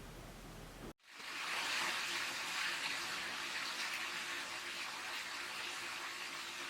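Steady rushing of water that starts after a brief dropout about a second in, replacing a low hum.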